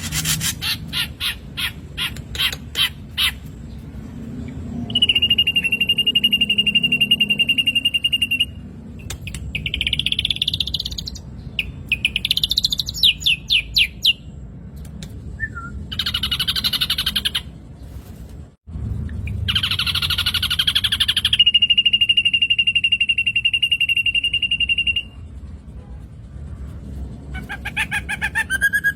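Black drongo song: a run of fast clicking notes, then long, even, high whistles held for several seconds, quick chattering note runs and harsh buzzy notes, with a brief break near the middle.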